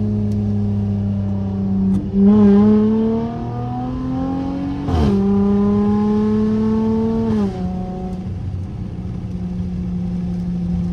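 Straight-piped SXT's exhaust under acceleration. The engine note climbs, then drops sharply at an upshift about five seconds in. It climbs a little again and drops once more with a second shift or lift-off, then settles into a steady cruise.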